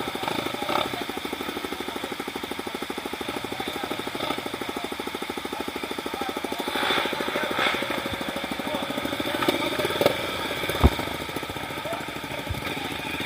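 Engine running at low, steady revs with a fast, even pulse. A few sharp knocks come in the second half.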